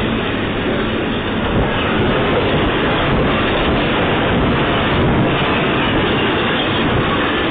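Steady, loud running noise of a moving vehicle, an even rumble and rush with no distinct bangs or changes.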